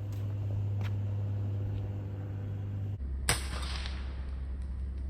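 A single shot from a .22 FX Maverick PCP air rifle about three seconds in: a sharp crack with a short trailing ring, over a steady low hum.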